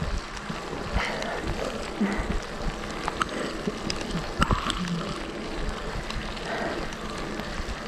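Heavy rain pouring down: a steady hiss, with scattered sharp drops striking close to the microphone.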